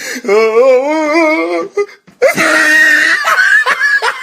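A drawn-out wavering cry, then, after a brief pause, a louder, shrill high-pitched cry.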